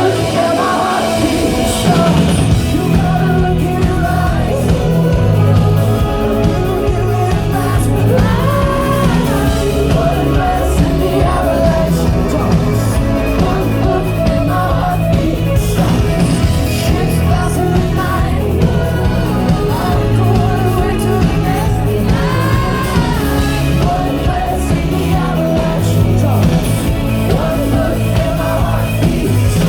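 Pop-rock song playing: a strained, belted lead vocal over a driving band with bass and drums at a steady beat.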